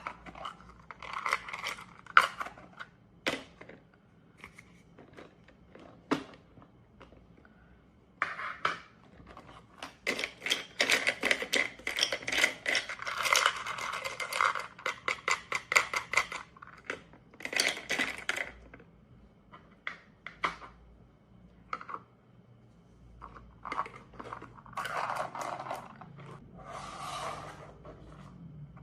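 Play fruit held together by Velcro being cut apart with a plastic toy knife: the Velcro tears open in several crackling bursts, some a few seconds long, with single sharp plastic clicks between them.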